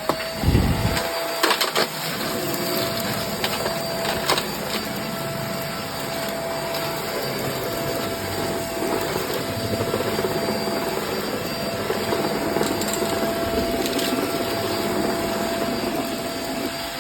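Hoover React vacuum running with a steady whine as its brush roll crunches and rattles through spilled debris, with a few sharp knocks in the first few seconds as bits are picked up.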